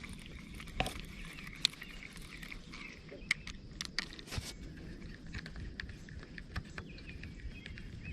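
Scattered small clicks and knocks, a few close together about three to four and a half seconds in, over a steady outdoor background.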